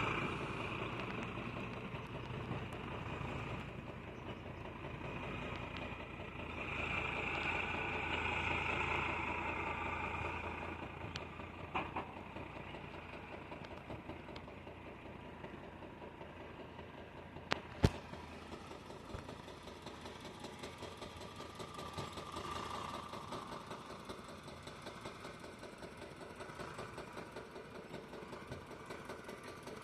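Diesel engine of heavy farm or construction machinery running steadily at low revs. It swells louder for a few seconds about a quarter of the way in, and a single sharp click comes a little past the middle.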